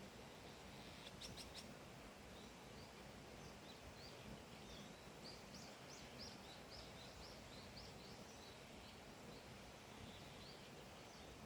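Faint outdoor ambience with a wild bird singing a run of short, high chirps, quickest in the middle, over a steady background hiss. Three quick clicks come just after a second in.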